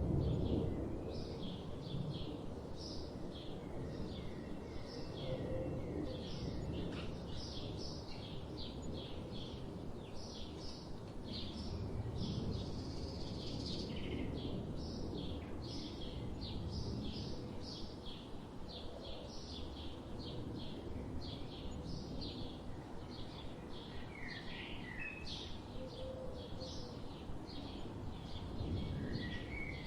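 Forest ambience: small birds chirping in quick succession, about two short calls a second, with a few gliding calls near the end, over a steady low rumble.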